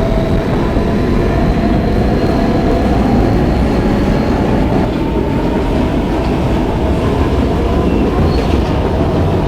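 R160B subway car with Siemens propulsion running along the track: a loud, steady rumble of wheels on rail with a thin, steady electric motor whine over it.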